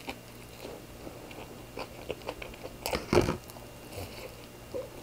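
Close-miked eating of a sukiyaki burger: chewing with small wet clicks, and a louder bite about three seconds in.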